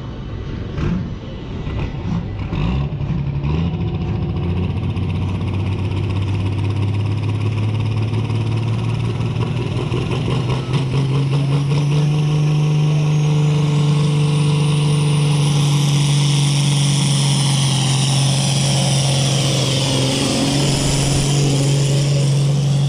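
Pulling tractor's engine running hard under load, its note climbing and then holding steady at high revs. A high whine rises in pitch partway through.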